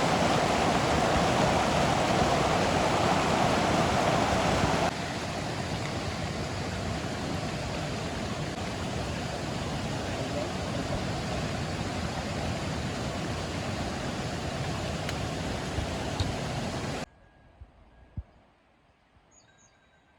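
Steady rushing of a waterfall: loud at first, then quieter after an abrupt change about five seconds in. About seventeen seconds in the water sound cuts off to near quiet, broken by a couple of faint clicks.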